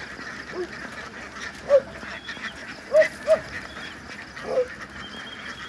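Domestic ducks quacking: short separate quacks every second or so, with a loud pair about three seconds in.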